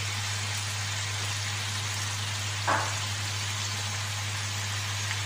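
Chicken pieces sizzling steadily in a wok, with one short knock a little past halfway through.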